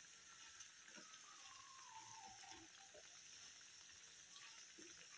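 Faint sizzling of batter-coated bottle-gourd slices deep-frying in hot oil, with a few small crackles.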